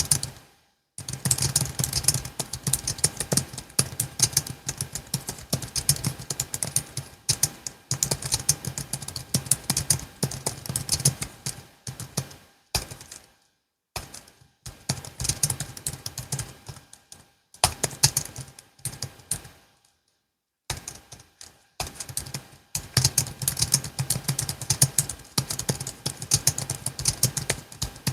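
Logitech MX Keys S low-profile keyboard being typed on in fast, continuous runs of key clicks, broken by a few pauses of a second or two.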